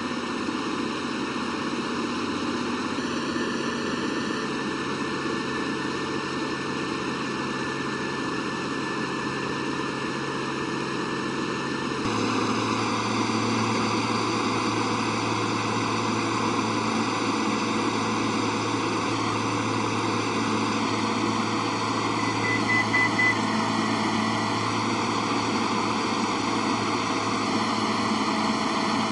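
Light aircraft's piston engine and propeller droning steadily, heard inside the cabin. The engine note shifts and grows louder about twelve seconds in, and a few short beeps sound about two-thirds of the way through.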